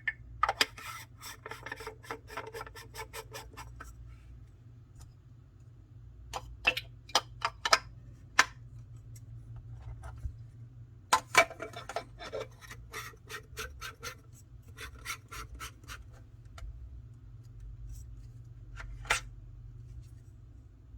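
Hard parts of a handheld manual espresso maker being handled: scraping and rubbing at first, then groups of sharp clicks and a single click near the end.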